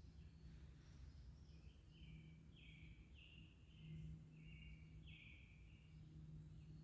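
Faint bird chirping: a string of short, repeated high notes, a few a second, over a steady low hum.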